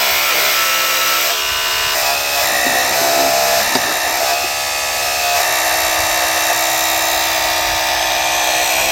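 Small electric motor whine from RC construction machinery, running steadily and shifting in pitch a couple of times.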